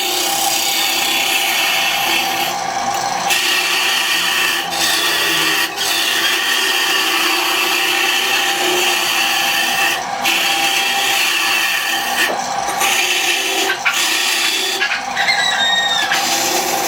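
Power tool cutting or shaping wood, running steadily with a few brief pauses and a short squeak about fifteen seconds in.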